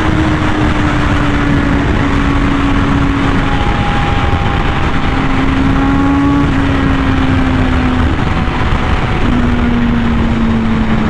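Honda Fireblade RR-R SP's inline-four engine with an SC Project exhaust running at steady high revs. Its pitch eases slowly downward, with a few small breaks as the throttle is adjusted, over a constant rush of wind noise.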